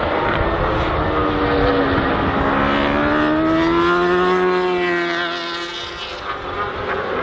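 Ducati Panigale V4 R World Superbike's V4 engine at racing speed, its pitch climbing to a peak and then falling away as the bike passes. The engine fades about six seconds in.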